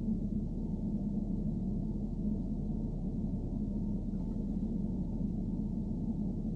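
Steady low rumbling drone of a BMW E90 3 Series heard from inside the car, with a constant low hum running through it.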